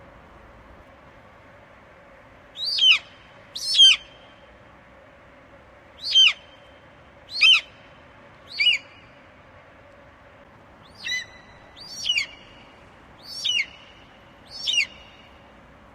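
Eagle calling: a series of nine short, high, down-slurred screeches spaced one to two seconds apart.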